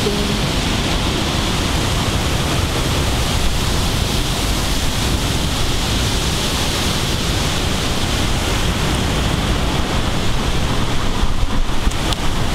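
Torrential thunderstorm downpour and wind making a steady, loud roar.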